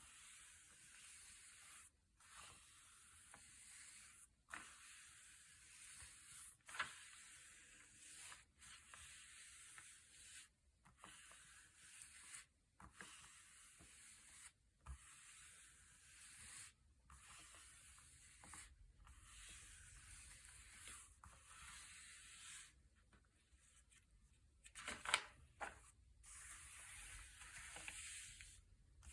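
Thick, glossy pages being turned one after another, a soft papery rustle about every two seconds, with a sharper paper snap near the end.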